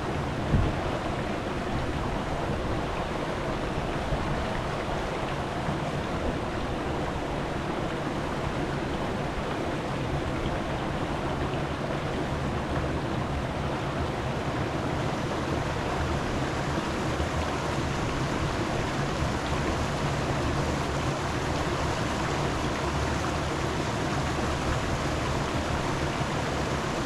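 A steady, even rushing noise, with one short knock about half a second in.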